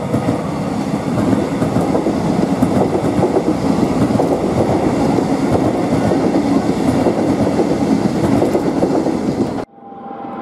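Metro Trains Melbourne electric suburban train rolling past, its wheels clattering over the points and rail joints. The sound cuts off abruptly near the end.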